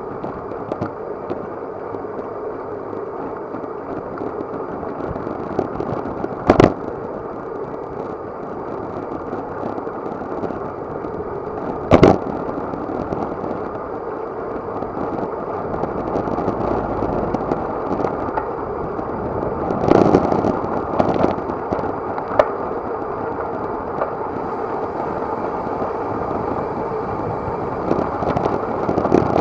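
Steady rushing noise of wind and tyres from a road bicycle ridden at speed, picked up by an action camera on the bike. A sharp knock comes about six seconds in and another about twelve seconds in, with a few smaller knocks later.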